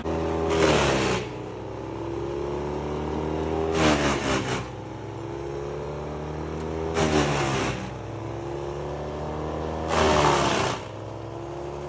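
Morbark wood chipper's engine running steadily while it chews through brush four times, about every three seconds: each time a loud grinding rush under a second long, with the engine note dipping under the load and then recovering.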